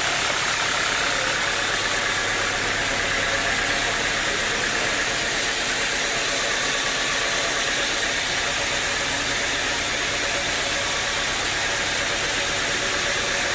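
Sawmill machinery running steadily: an engine hum under a constant broad hiss, with no change in level.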